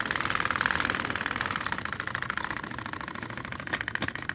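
Small electric motors of battery-powered toy train engines whirring steadily with a fast, even buzz as two engines push against each other. There are two sharp clicks near the end.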